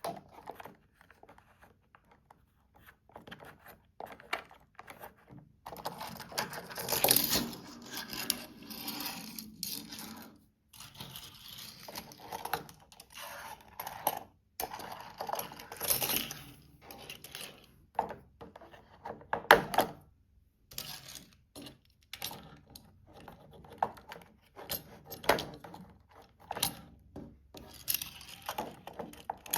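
Toy truck and small plastic playset pieces being handled: irregular clicks, rattles and scraping, with longer scrapes about 7 and 16 seconds in and a sharp clack near 20 seconds.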